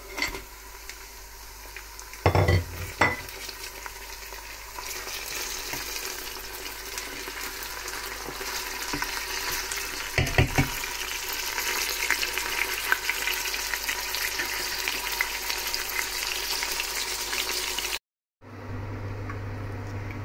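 Onions and frozen ginger-garlic paste frying in hot oil in a pot: a steady sizzle that grows louder about five seconds in, with a few knocks against the pot early on and again about ten seconds in.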